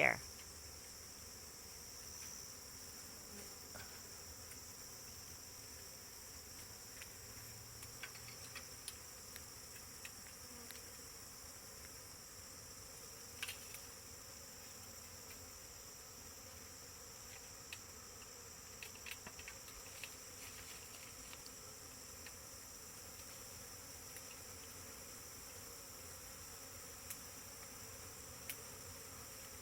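Faint, steady insect sound: an even, high buzz with a few soft clicks scattered through it.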